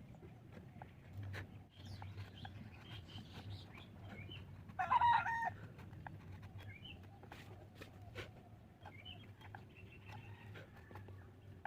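A chicken calls once, loudly and briefly, about five seconds in, over faint bird chirps, a low steady hum and a few light knocks.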